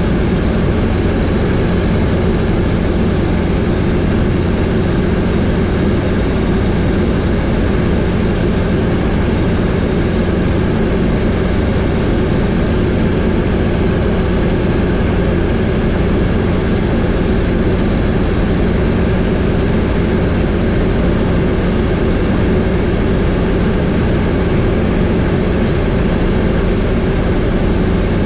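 Helicopter in flight, its engine and rotor giving a loud, steady drone with a constant low hum.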